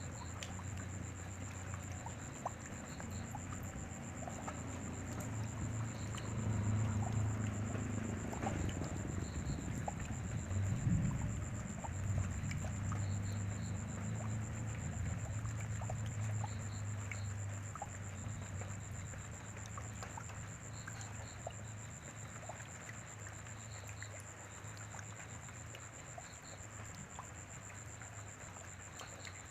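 Rain falling steadily, with scattered drops ticking on surfaces. A low rumble swells for several seconds in the middle, then slowly fades.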